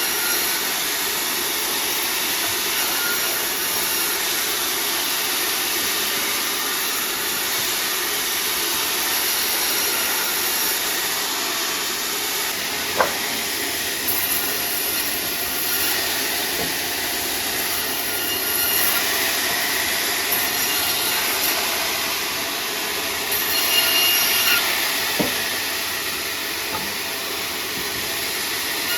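Sawmill saw cutting sengon timber, a steady noisy run that swells now and then, with two sharp knocks, one about halfway through and one near the end.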